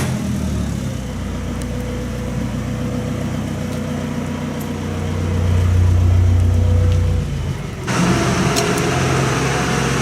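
Tractor engines running steadily, one growing louder for a couple of seconds around the middle; at about eight seconds the sound changes abruptly to a noisier mix of engines.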